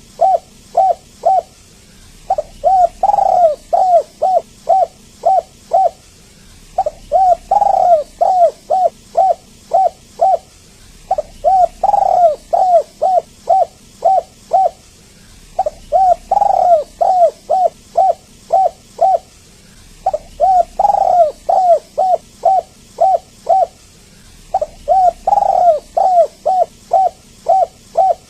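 Spotted dove cooing in repeated phrases, each a quick series of about seven to nine coos, the first ones fullest, with a short pause before the next phrase starts, about every four and a half seconds.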